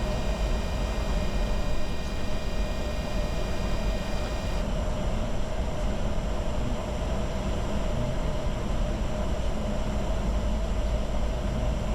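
Steady in-flight cockpit noise of a Bombardier Challenger 605 jet: an unbroken rushing hum of airflow and engines, heaviest in the low end. Faint steady high tones drop out about four and a half seconds in.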